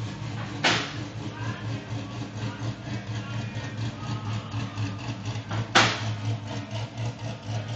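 LS7 V8 engine idling steadily with a rhythmic pulse. Two short, loud bursts of hiss-like noise cut through it, about five seconds apart.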